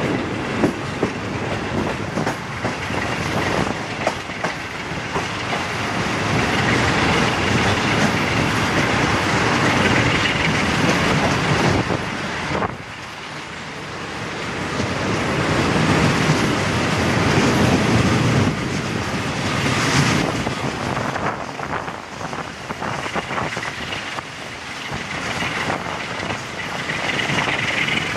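Passenger train running at speed behind a CFR Class 60 Sulzer diesel locomotive, heard from a coach window: steady rumble of wheels on rail with clickety-clack over the joints. It is briefly quieter about halfway through, and a rising whine comes in near the end.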